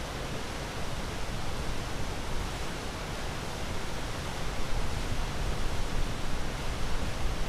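Ocean waves: a continuous rushing wash of surf, swelling slightly louder in the second half.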